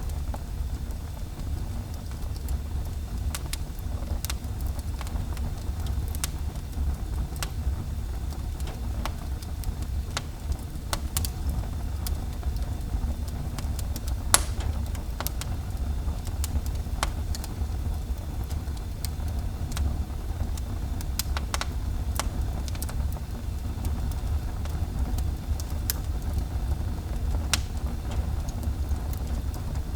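Wood fire burning in a fireplace: a steady low rumble with irregular crackles and small pops, and one louder pop about halfway through.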